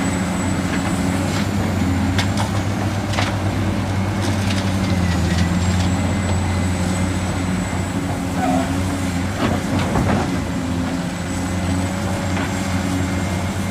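A machine's engine running steadily with a low drone, a faint high whine and a few scattered clicks.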